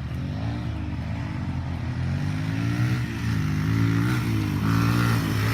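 Dirt bike engine running, its pitch rising and falling as the throttle is worked, growing louder from about the middle on.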